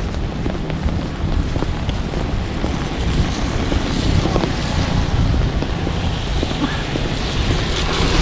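Steady low rumbling outdoor noise of wind on the microphone mixed with traffic, growing a little louder from about three seconds in.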